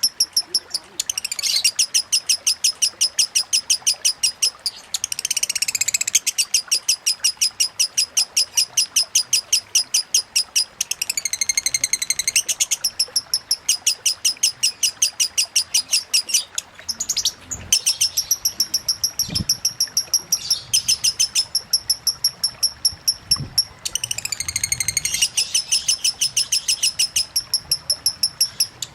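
Lovebird giving long, rapid chattering trills ('ngekek'): several seconds of fast, evenly repeated high notes at a time, broken by short pauses and gliding phrases, the long-winded delivery that keepers call 'konslet'.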